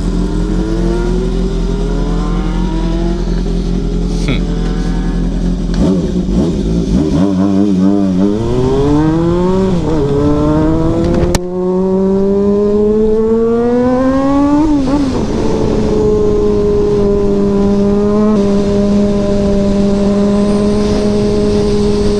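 Four-cylinder 400 cc motorcycle engine pulling under way: its pitch climbs as it accelerates, drops sharply at upshifts about ten and fifteen seconds in, then holds steady at cruising speed.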